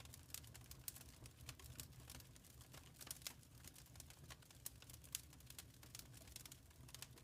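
Wood fire crackling in a fireplace: faint, irregular small snaps and pops over a low steady rumble.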